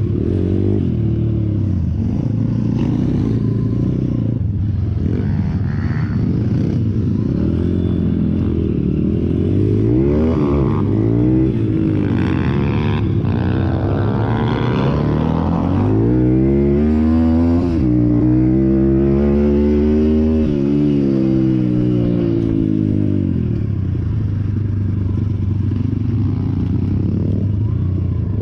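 Small single-cylinder pit bike engine being ridden, its revs climbing and dropping again and again, with a run of rising sweeps in the second half.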